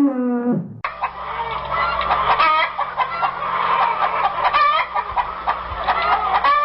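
Chickens clucking, many short calls overlapping over a steady low hum. In the first second, the tail of a drawn-out pitched animal call cuts off.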